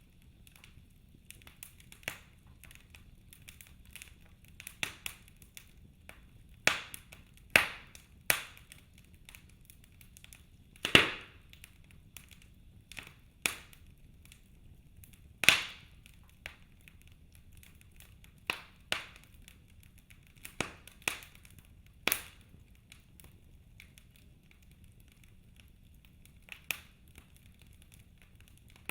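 Wood fire burning in a fireplace: logs crackling and popping with sharp, irregular cracks, a few of them loud, over a faint low hiss of the flames.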